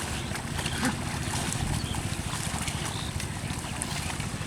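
Wind buffeting the microphone, with scattered small splashes and sloshes of water and mud.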